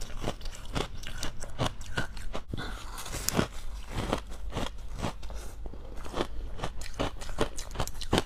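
A person biting and chewing frosty ice, a fast, irregular run of sharp crunches, several a second.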